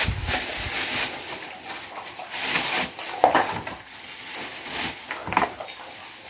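Thin plastic bags rustling and crinkling in irregular bursts as pieces of raw meat are packed into them.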